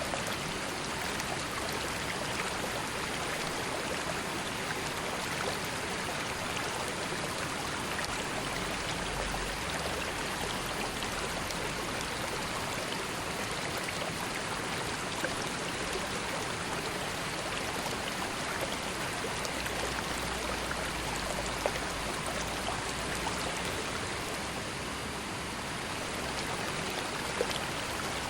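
River water flowing steadily over stones, an even rushing with faint splashes and trickles.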